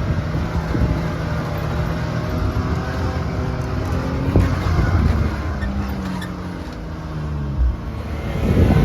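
Can-Am Maverick X3 Max side-by-side's engine running while the machine drives along a trail. The engine note holds steady, then shifts and falls off after about four seconds, dips around seven seconds, and picks up again near the end.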